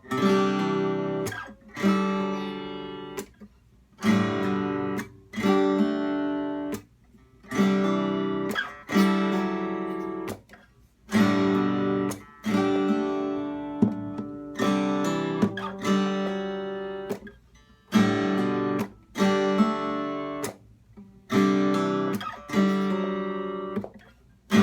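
Acoustic guitar strummed chord by chord, with the index finger hammered on late into each chord. Each chord rings for a second or two and is then stopped dead by muting the strings before the next one comes in.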